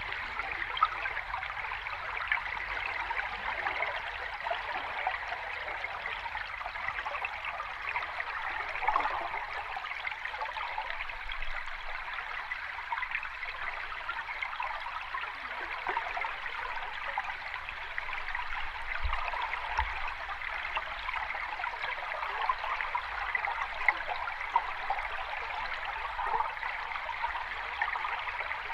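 Sea water washing and trickling at a steady level, without the rise and fall of large breaking waves.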